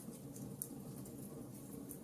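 Log fire burning in a fireplace: a steady low rumble of flames with scattered sharp crackles and pops from the burning wood, the loudest pop about half a second in.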